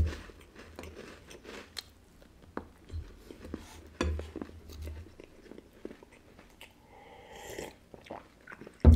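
Close-up mouth sounds of a person chewing crisp wafers, with scattered short crunches. Near the end comes a sip from a glass mug, then a thump.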